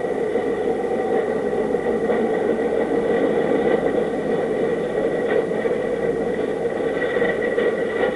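A steady mechanical drone with hiss, even throughout and without distinct knocks or changes.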